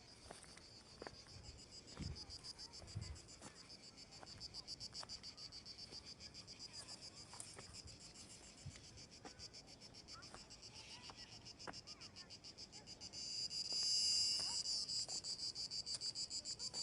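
Insects singing outdoors, a steady, rapidly pulsing high buzz that swells louder about thirteen seconds in, with a few faint knocks underneath.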